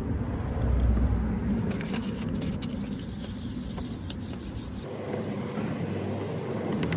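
Wet sanding of body filler on a car's wheel arch with fine 3000-grit paper: a run of quick rubbing strokes in the middle, over a low rumble that fades about five seconds in.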